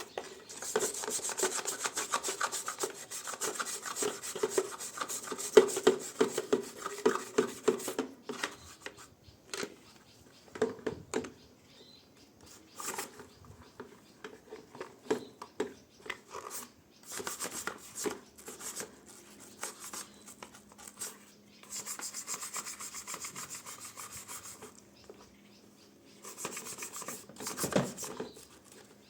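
Scrubbing by hand, rubbing back and forth over a surface: a dense run of quick strokes for about the first eight seconds, then shorter bouts with pauses between them.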